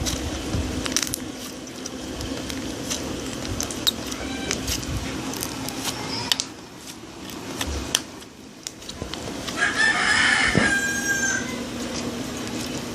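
Scattered small pops and clicks over a steady low hum, with a drawn-out pitched call, like a rooster's crow, lasting about two seconds at around ten seconds in.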